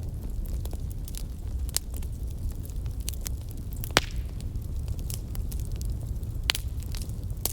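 Wood fire burning in a fireplace: a steady low rumble of flames with scattered crackles, the loudest pop about four seconds in and another near the end.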